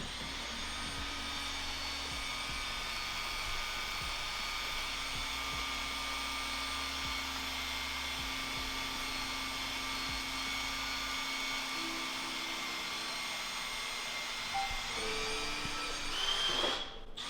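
A small electric motor runs steadily with a continuous whine and hiss, like a shop vacuum or power tool. Its pitch shifts and the sound drops away near the end.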